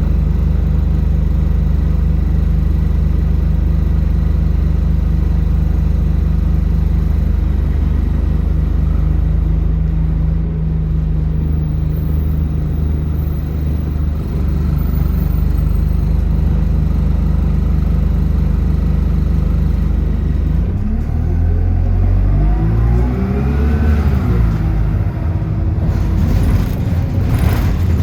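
Bus engine running with a steady low drone, then about twenty seconds in it revs up as the bus accelerates, its pitch rising and then dropping as it changes gear.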